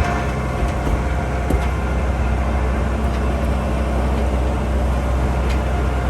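Tourist train running along the track: a steady low engine drone with a few sharp clicks and knocks from the wheels and cars.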